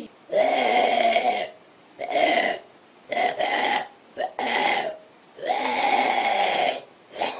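A man making a string of about six burp-like noises with his throat, each lasting from a fraction of a second to over a second, with short gaps between them.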